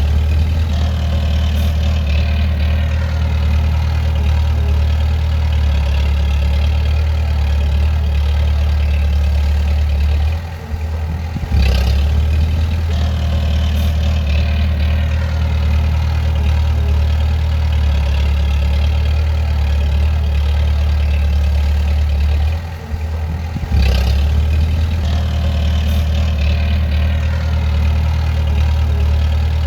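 Bulldozer's diesel engine running steadily with a deep, even hum, dipping briefly twice, about ten and twenty-three seconds in.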